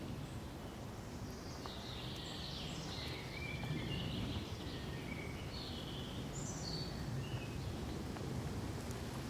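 Forest ambience: a steady low rush of background noise, with birds calling in short high chirps and whistles, several overlapping, from about a second and a half in until near the end.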